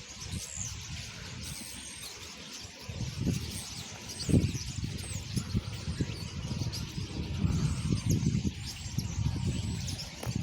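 A large flock of birds calling all at once, a dense, continuous chorus of overlapping chirps. From about three seconds in, wind gusts on the microphone and adds an irregular low rumble.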